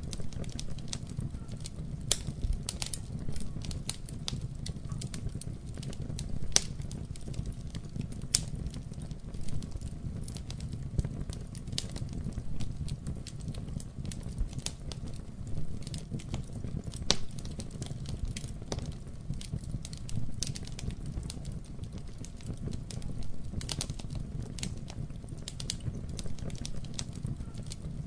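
Wood fire burning in a fireplace: a steady low rumble of flames with frequent irregular crackles and pops, a few sharper snaps standing out.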